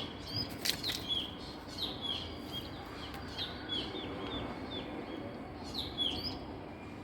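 Female Asian koel calling: short, sharp notes, each dropping in pitch, given in quick runs of several, with a pause a little past the middle. There is a brief noisy burst just under a second in.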